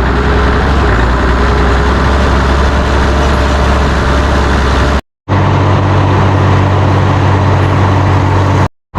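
Farm tractor engine running steadily under way, heard loud. The sound cuts out briefly about five seconds in and again near the end.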